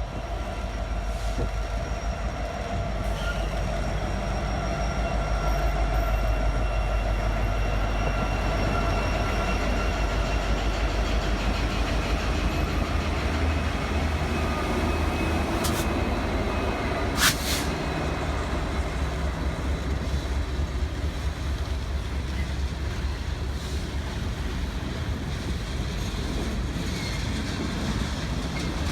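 A train rolling by with a steady low rumble and faint, thin high steady tones above it, and a single sharp click about seventeen seconds in.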